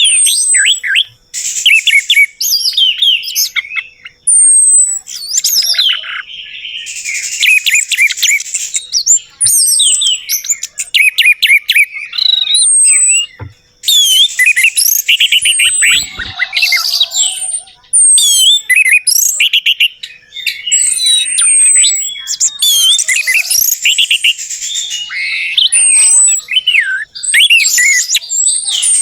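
Orange-headed thrush (anis merah) singing a long, varied song of rapid whistled phrases and chatter, with short falling whistles repeated high up and a few brief pauses.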